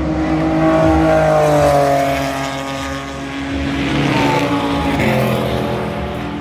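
GT race cars' engines passing at speed, their notes sliding down in pitch as they go by, over the steady drone of other cars on track.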